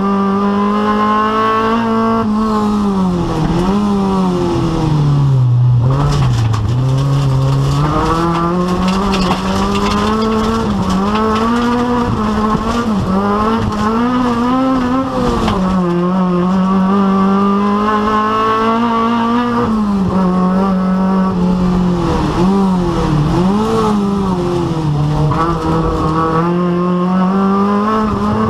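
Rally car engine running hard in a rallycross race, its note holding high, then dipping and climbing again with throttle lifts and gear changes, and dropping lowest about six seconds in.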